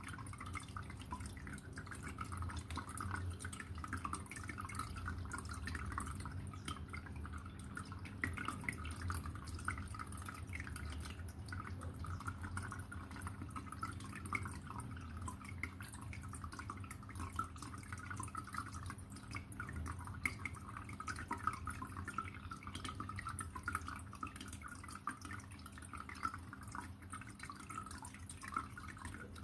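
Water trickling and dripping steadily in many small continuous drops, over a low steady hum.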